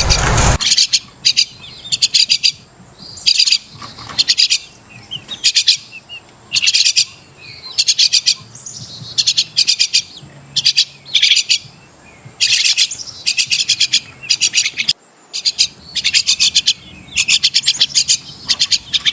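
Crested myna calling: repeated bursts of rapid, harsh chattering notes, each burst lasting under a second, with short pauses between them.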